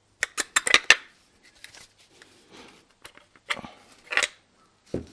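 Small metal parts of a diaphragm pump's electric motor clicking and scraping as it is taken apart by hand: a quick run of sharp clicks at the start, light scraping, another cluster of clicks about three and a half seconds in, and a duller knock near the end.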